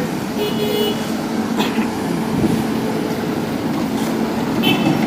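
Street traffic: motor vehicles running and idling at a road crossing, a steady hum with engine tones. Two brief high squeaks stand out, one about half a second in and one near the end.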